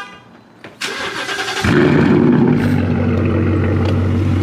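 Ford Mustang GT's V8 being started: the starter cranks for under a second, the engine catches with a loud flare of revs about a second and a half in, then settles into a steady fast idle.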